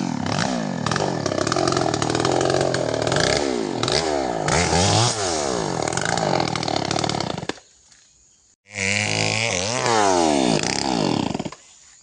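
Two-stroke chainsaw cutting wood, its engine revving up and down over and over. It drops out past the middle, comes back about a second later, and stops near the end.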